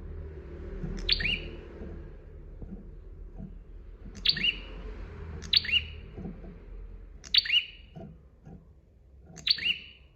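A prinia (prenjak) calling: five short, sharp, high chirping phrases a second or two apart, over a low rumble with a few soft knocks.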